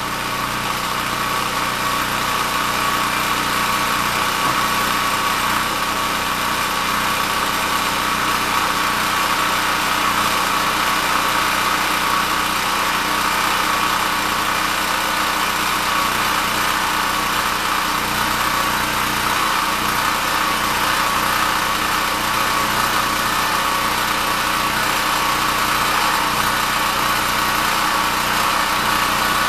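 Champion portable generator's 196 cc single-cylinder overhead-valve engine running steadily just after a cold start, having sat unused for months; it gets slightly louder over the first few seconds, then holds an even speed.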